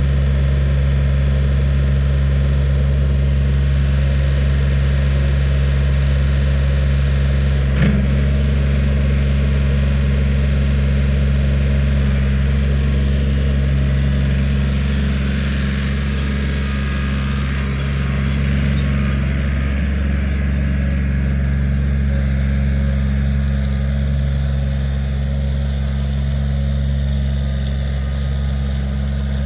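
Kioti 4010 tractor's diesel engine running steadily while the backhoe digs, with a single sharp knock about eight seconds in.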